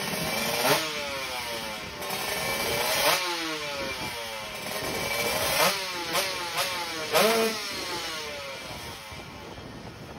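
Kawasaki Ninja 150 two-stroke single-cylinder drag-race engine, tuned to the '59 open' class, being warmed up with about six sharp throttle blips, each rev rising fast and falling back. The revving tails off over the last couple of seconds.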